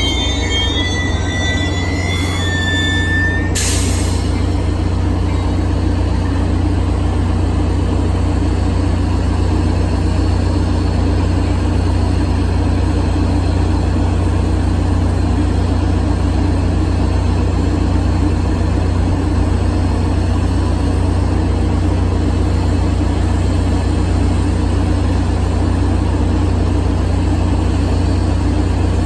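Commuter train wheels squealing as it brakes to a stop, cut off about three and a half seconds in by a short sharp hiss of air. After that, the diesel locomotive's steady low engine drone as the train stands.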